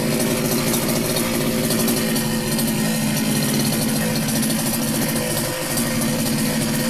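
Small two-stroke strimmer engine idling steadily while it warms up after a cold start.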